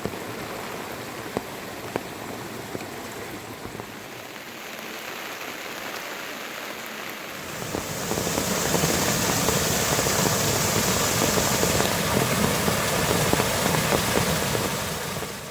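Steady rainfall with a soft patter of drops; it turns louder and heavier about halfway through.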